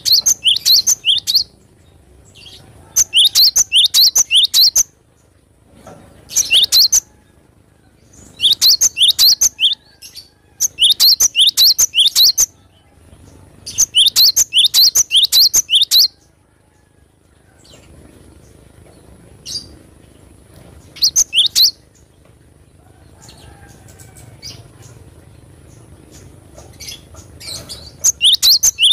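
Cinereous tit (gelatik batu) singing in phrases of quick, repeated high notes, each phrase one to two seconds long with short pauses between.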